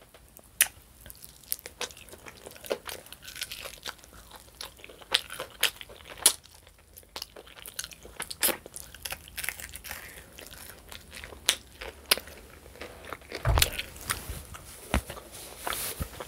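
Close-miked eating of a baked chicken wing: irregular crisp clicks and smacks of chewing as the meat is picked from the bone by hand. One louder low thump comes about thirteen seconds in.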